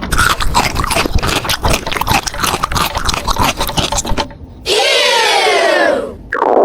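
Rapid clicking, rattling and scraping of small plastic pieces being handled for about four seconds. After a short pause comes a high, voice-like sound that falls in pitch.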